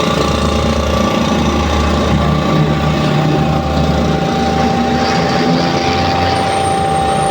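2 hp oil-lubricated piston air compressor running steadily: a constant low hum with a steady whine above it.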